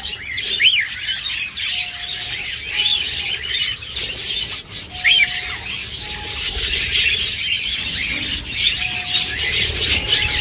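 Several budgerigars chattering and chirping continuously, with a few louder, sharp squeaky chirps standing out now and then.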